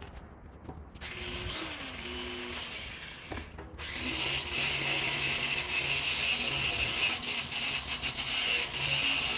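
A power tool working, steady and noisy with scattered clicks, starting abruptly about a second in and getting louder from about four seconds.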